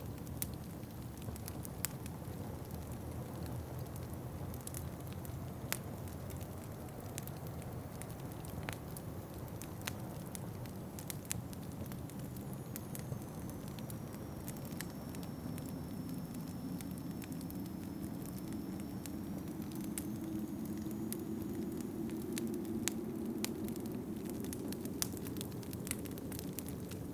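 Wood fire crackling, with irregular sharp pops, over a steady low rush of wind that swells louder in the second half.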